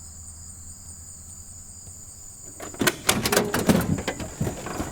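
Steady high-pitched insect drone over a low hum. About halfway in, a run of irregular loud knocks and clunks begins.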